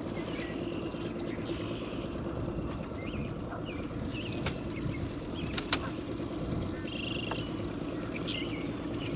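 Birds chirping in short scattered calls over a steady low hum, with a few sharp clicks about four and a half and five and a half seconds in.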